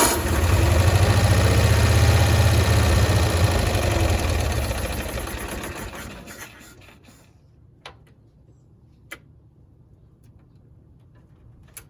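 1965 Cushman Truckster's engine starting and running with a fast, even beat, then fading and stopping about five to seven seconds in, while the carburettor mixture is being set and a stuck float is suspected. A few faint clicks follow.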